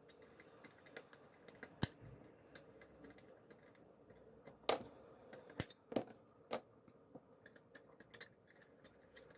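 Cutters snipping the metal pins of a connector on a circuit board: irregular small clicks, with a few louder snips about halfway through.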